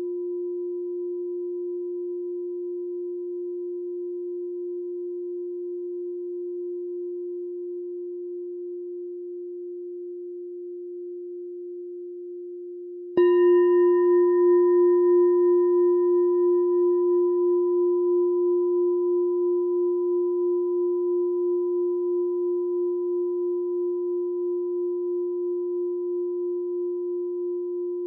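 Meditation bell ringing. A long fading ring from an earlier strike carries through the first half. About thirteen seconds in the bell is struck once, and it rings out with a low steady hum, while its brighter higher tones die away within a few seconds.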